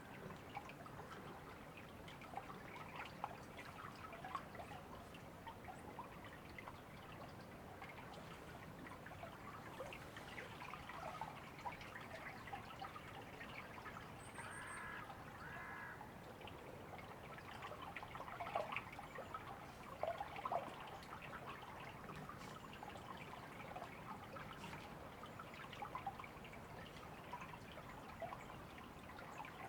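River water trickling and babbling steadily, faint. About halfway through, a bird gives two short calls one after the other.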